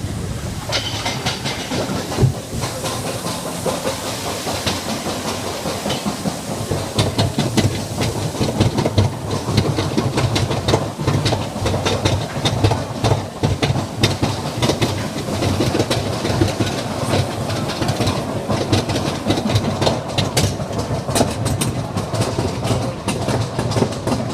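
Mine-train roller coaster running along its track: a steady rumble with rapid clattering and clicking of the wheels on the rails throughout.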